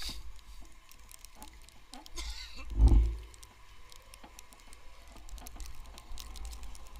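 Wind buffeting the microphone in a low rumble, with many small scattered clicks and crackles; the wind peaks in one loud gust about three seconds in.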